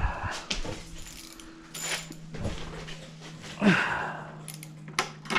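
Small metal tools and parts clinking and tapping during hands-on mower carburetor work, with a louder brief scrape about two-thirds of the way through. A steady low hum runs underneath.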